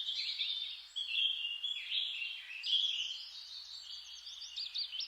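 Several songbirds singing at once: quick overlapping chirps and trills, over a faint background hiss.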